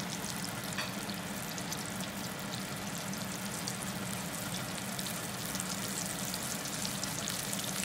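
Battered mushroom frying in hot oil in a cast iron skillet: a steady sizzle with fine crackles, over a low steady hum.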